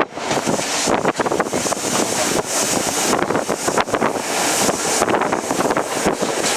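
Wind rushing over the microphone aboard a moving passenger train, with a dense clatter of short clicks and rattles from the carriage running on the track.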